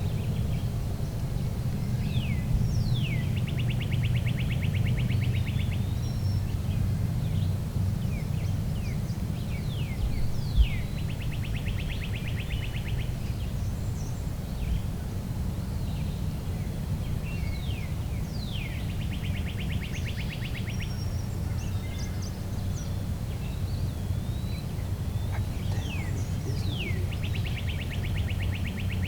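A songbird repeats the same song four times, about every eight seconds: a few quick falling whistles, then a fast trill lasting about two seconds. A steady low rumble runs underneath, and a single short knock comes about ten seconds in.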